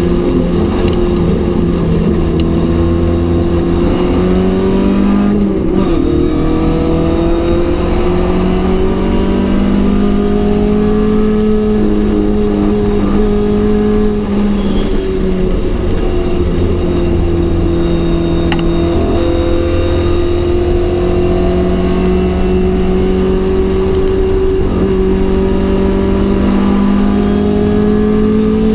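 Mk.1 Ford Cortina GT race car's four-cylinder engine running hard at racing speed, its pitch climbing and dropping with throttle and gear changes: a sharp drop about five seconds in, another about halfway through, then a long slow climb to the end.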